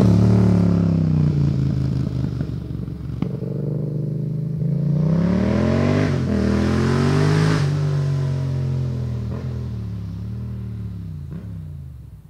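Yamaha MT-07's parallel-twin engine through a MIVV GP carbon exhaust. The engine pitch falls, rises again about five seconds in, then drops away. The sound fades out near the end.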